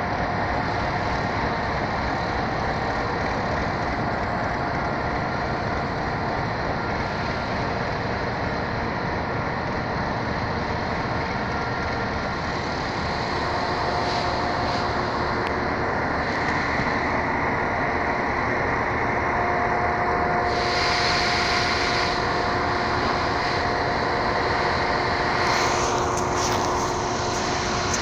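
A train running along the tracks: a steady rumbling noise with a faint steady whine, and a brief hiss about twenty seconds in and again near the end.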